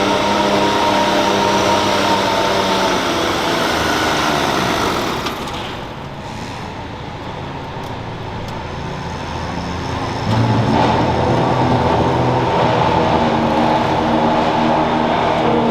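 Garden tractor engine running hard under load, then its pitch falls and it winds down about four seconds in. After several seconds of quieter engine noise, a loud engine comes in abruptly about ten seconds in and runs steadily.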